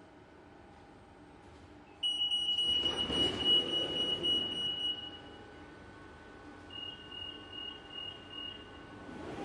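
Inside a train carriage: a low steady hum, then about two seconds in a loud high electronic warning tone held for about three seconds while a rushing noise swells and fades, followed near the end by a run of short beeps at the same pitch. This is a train's door warning signal.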